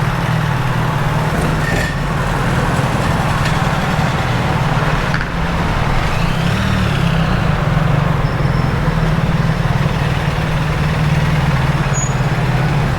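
A vehicle engine idling with a steady low hum. About six seconds in, a brief high whine rises and then falls.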